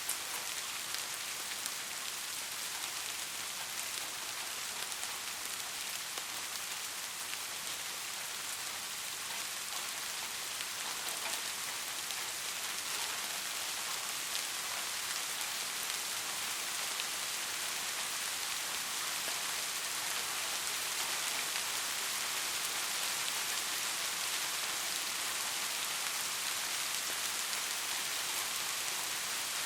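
Steady rain falling, an even hiss with many small drop ticks, no thunder or music.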